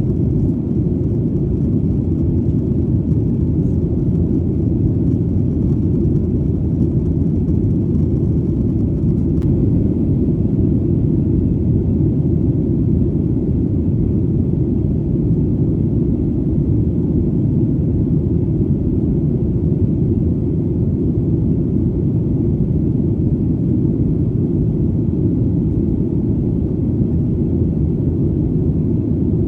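Airplane engine drone: a steady, deep rumble that holds an even level throughout.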